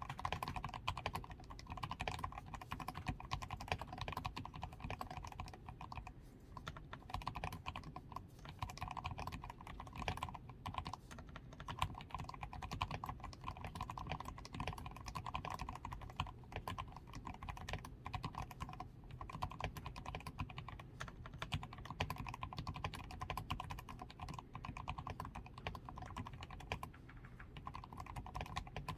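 Continuous fast typing on a DAREU A87 Pro mechanical keyboard, modded with fully lubricated switches, PCB tape mod, added foam, XDA keycaps and lubed stabilisers: a dense stream of key clicks with short pauses now and then.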